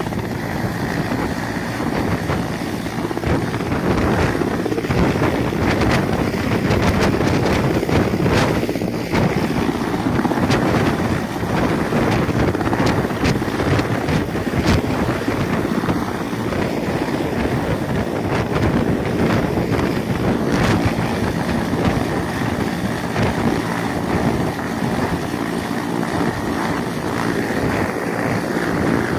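Helicopter's rotor and turbine engine running steadily, with wind buffeting the microphone.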